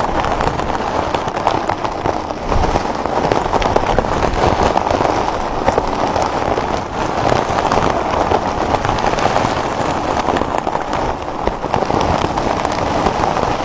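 Firecrackers going off in a dense, continuous crackle of rapid pops.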